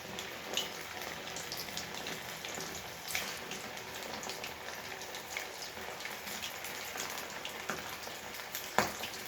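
Marinated chicken pieces deep-frying in hot oil in a kadai: a steady sizzle with many small scattered crackles and pops. A sharp knock near the end.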